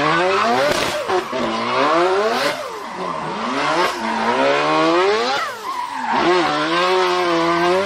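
A drift car's engine revving hard, its pitch climbing and dropping about four times as the throttle is worked, over a steady hiss of tyres sliding and squealing.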